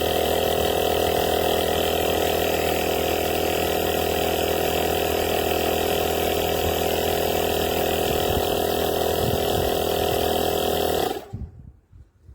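A cordless portable air compressor (tyre inflater) running steadily with an even mechanical drone, then shutting off abruptly near the end.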